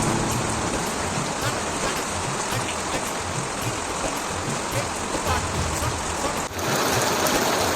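Steady rain falling, an even hiss of drops, broken by a brief drop-out about three quarters of the way through after which the rain resumes with a slightly different sound.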